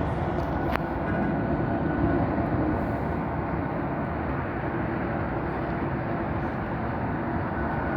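Rolls-Royce Trent 800 turbofans of an American Airlines Boeing 777-200 at takeoff thrust: a steady, heavy jet rumble with a faint whine over it, the sound the spotter likens to the RB211.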